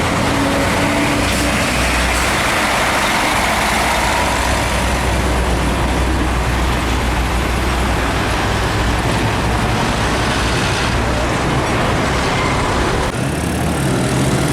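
Heavy trucks passing close by on a highway: diesel engines running and tyres rushing on the road. About a second before the end the rush of tyre noise drops away and a steady low engine tone takes over.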